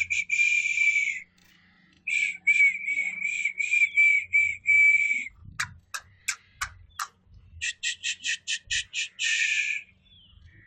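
A bird calling in three bursts of rapid, harsh repeated notes with short pauses between them. A few sharp clicks fall in the middle pause.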